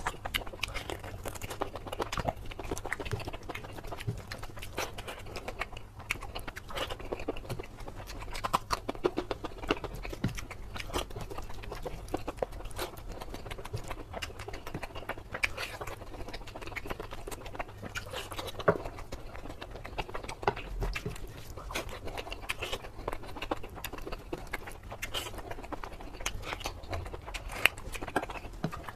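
Close-miked chewing of mutton curry and rice: wet, clicking mouth and lip-smacking sounds in a continuous irregular patter of short sharp clicks.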